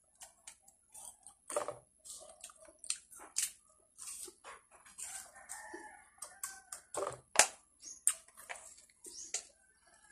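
Crisp bites and wet chewing of watery rose apples, in many short crunches and mouth clicks, the loudest about seven seconds in. Short chicken calls sound behind them, around the middle.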